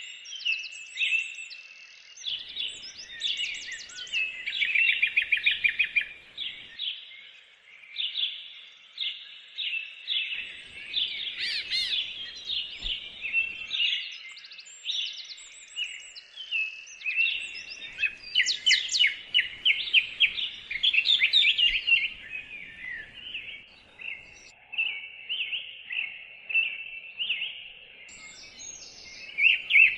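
Birdsong: a continuous run of high chirps and fast trills, with hardly a pause.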